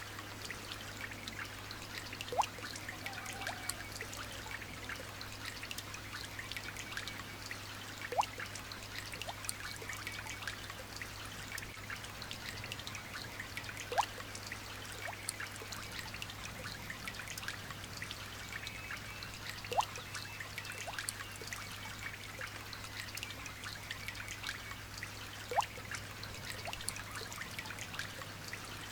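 Light rain trickling and pattering, with a louder drop plopping into water about every six seconds, each a short rising plop. Faint high chirps run underneath, along with a steady low hum.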